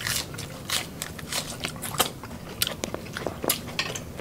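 Close-miked eating: people chewing and biting into boiled seafood, shrimp and corn, with many short, irregular mouth clicks and smacks.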